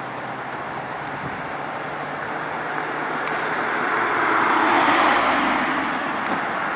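A road vehicle passing close by: a rush of engine and tyre noise that swells to a peak about five seconds in and then eases off.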